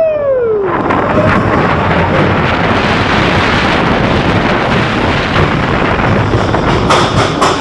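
Wind buffeting the microphone and the mine train roller coaster's cars rumbling down the track on the big drop, a loud steady rush. A few sharp clacks near the end.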